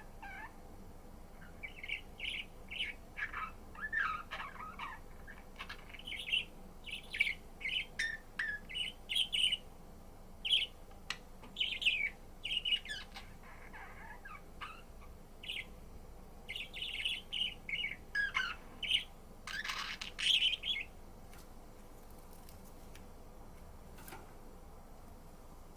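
Budgerigar chirping and warbling in quick runs of short, high chirps, falling silent about 21 seconds in.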